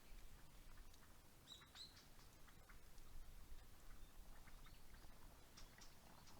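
Quiet outdoor ambience with two short, faint bird chirps about a second and a half in, and scattered faint ticks.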